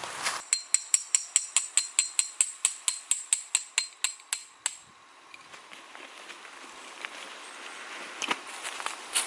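Hammer tapping on metal: about twenty quick, evenly spaced strikes with a bright ringing tone, stopping abruptly about five seconds in. A couple of duller knocks come near the end.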